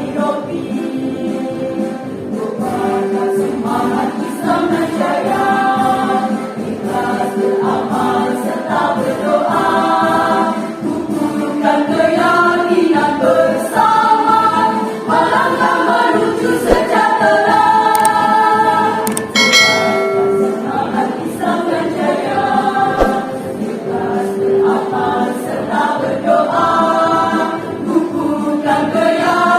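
A choir singing a march song together over an accompaniment with a steady beat.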